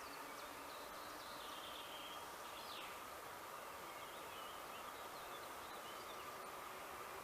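Faint ambience: a low steady hiss with distant birds chirping now and then.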